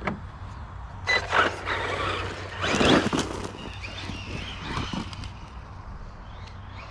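Losi Lasernut RC rock racer driving in, in short bursts of throttle: a brief high motor whine about a second in, then a louder scrape of tyres on the ground near three seconds, tapering off.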